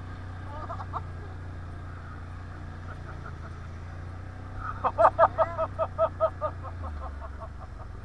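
Can-Am 1000 quad's engine running steadily, its note dropping lower near the end. Just past the middle comes the loudest sound: a burst of about nine quick pitched pulses that fade away.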